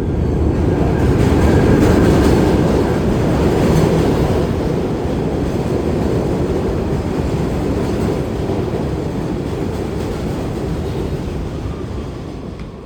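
New York City Subway R68 train running on the track: a steady rumble of wheels and car, loudest a couple of seconds in and easing off toward the end as the train slows.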